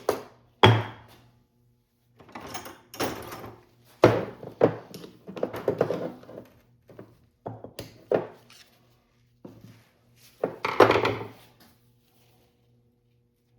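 Tools and parts being handled on a workbench during a dirt bike shock linkage rebuild: irregular knocks, clunks and scraping clatter, the loudest about a second in and near the end, over a steady low hum.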